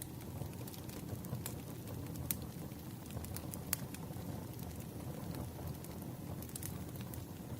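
Campfire burning: a steady low rumble of flames with scattered sharp crackles and pops of burning wood, a few louder ones about one and a half, two and a half, and near four seconds in.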